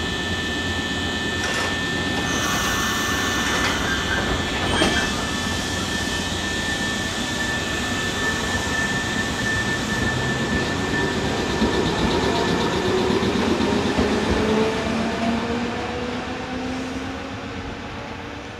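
Nankai Koya Line electric train running through the station, with a brief knock about five seconds in. In the second half a whine rises steadily in pitch as the train speeds up and pulls away, growing fainter.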